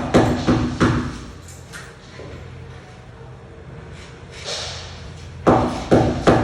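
Repeated hammer blows, about three a second with a slight ring. They pause for a few seconds and start again about five and a half seconds in.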